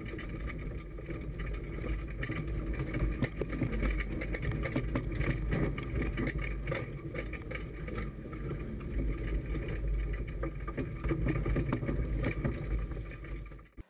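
Engine of a 4x4 hill-rally car running hard on a stage, with frequent sharp knocks and clatters over it. The sound cuts off suddenly near the end.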